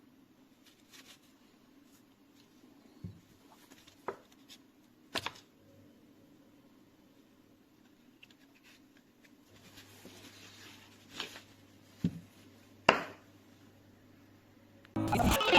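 Quiet room tone broken by a handful of short, scattered clicks and knocks. Loud electronic dance music starts abruptly near the end.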